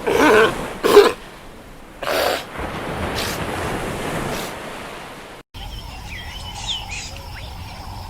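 Short animal calls that bend up and down in pitch, twice in the first second and once about two seconds in, followed by a steady hiss. After an abrupt cut, small birds chirp over a faint steady high tone.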